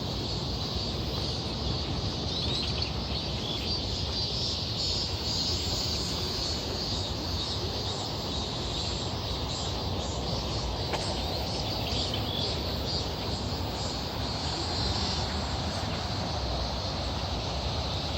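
Steady outdoor ambience: a continuous rushing noise with a high, even insect buzz over it and a few short bird chirps.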